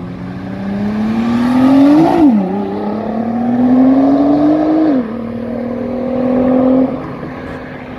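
Sports car accelerating hard away, its engine note climbing steadily, then dropping sharply at an upshift about two seconds in. It climbs again to a second upshift about five seconds in, holds, and fades as the car drives off near the end.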